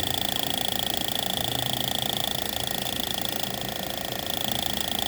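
Pair of motorcycle fuel injectors pulsing on an injector test bench, a fast steady clatter of clicks with a slight dip in level about three and a half seconds in. The second injector is being checked for an intermittent fault, which turns out to be a bad electrical contact.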